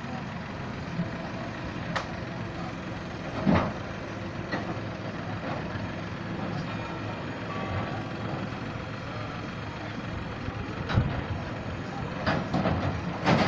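Tractor engine running steadily, with a few sharp knocks and clatters, the loudest a little after three seconds in and a burst of them near the end.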